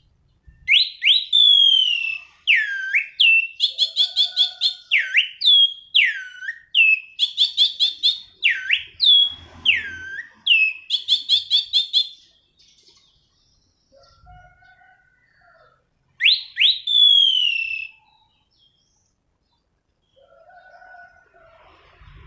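Orange-headed thrush (anis cendana) singing. Loud whistled phrases of falling slurs run together with rapid repeated trills for about twelve seconds, then there is a pause, one more falling phrase, and faint soft notes near the end.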